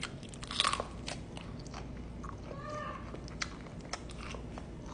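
Someone biting into and chewing roasted corn ribs: irregular crunchy clicks and crackles, with the loudest crunching about half a second in.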